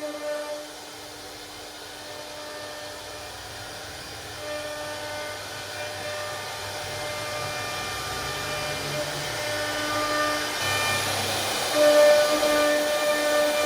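CNC router spindle running with a steady whine while cutting a wooden door panel; the cutting noise grows louder about eleven seconds in.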